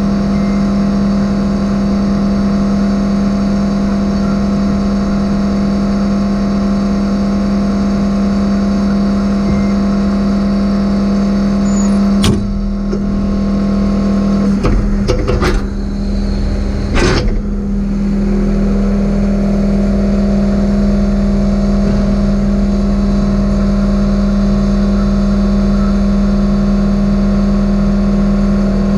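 John Deere 135 excavator's diesel engine running steadily, with a few sharp knocks a little under halfway through.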